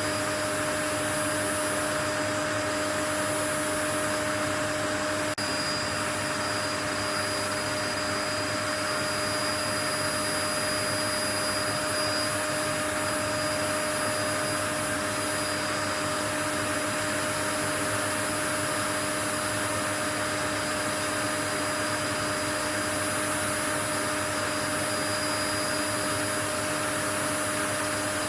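Steady white noise: an even, unchanging hiss with a few faint steady tones mixed into it.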